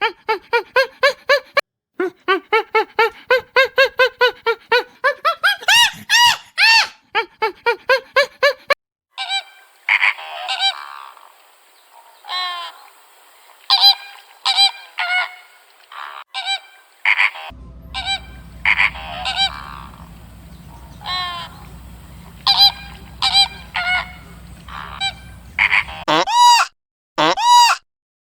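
Geese honking: a rapid run of short nasal honks, then spaced single honks. A low steady hum lies under the calls for several seconds in the second half.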